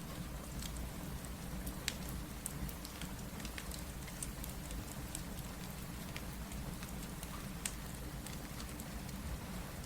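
Steady rain hiss with a low rumble, mixed with a wood fire crackling: scattered sharp pops and snaps every second or so.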